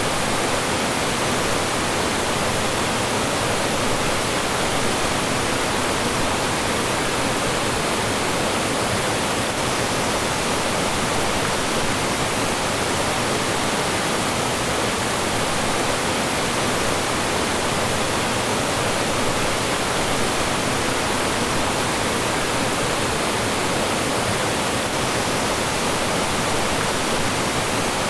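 Mountain stream rushing and splashing over rocks and small falls, a steady, even wash of water.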